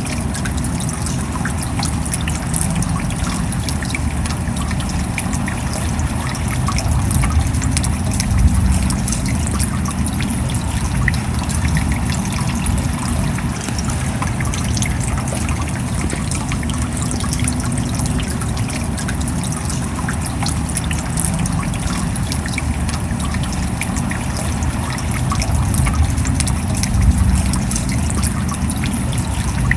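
Steady rain falling: a dense, continuous patter of drops over a low rumble, swelling slightly twice.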